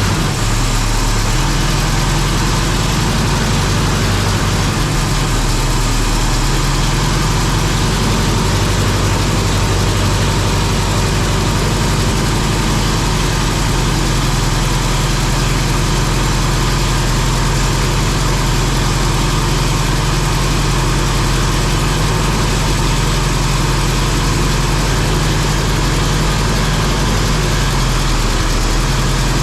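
Freshly rebuilt big-block Oldsmobile V8 running steadily on its new headers and exhaust during break-in, with small changes in pitch now and then. The owner believes it runs super rich and will not idle because of a vacuum leak under the intake manifold.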